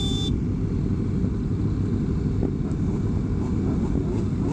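Steady wind rush and low rumble of a motorcycle riding at speed in a group, heard from the rider's own bike. A high-pitched tone cuts off just after the start.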